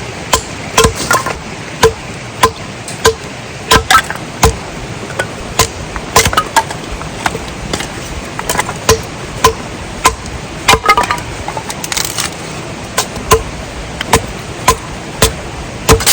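Repeated chopping strikes into wood, about two a second, each a sharp crack with a short ring.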